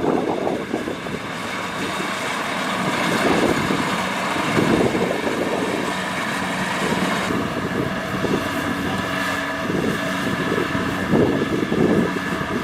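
Kubota DC-70 Plus combine harvester's diesel engine and threshing machinery running steadily under load while harvesting rice, a constant mechanical drone with a steady whine.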